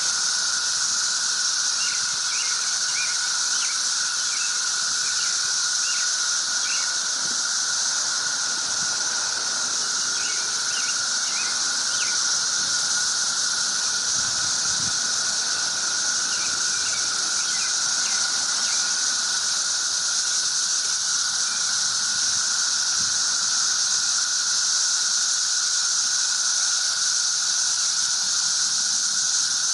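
Cicada chorus: a loud, unbroken high-pitched drone over a steadier lower hum, with scattered short chirps.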